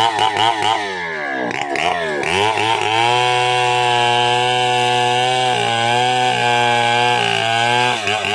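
Stihl 070 two-stroke chainsaw revved in quick throttle blips, then held at high revs for about five seconds. Its pitch dips briefly twice before the revs drop near the end.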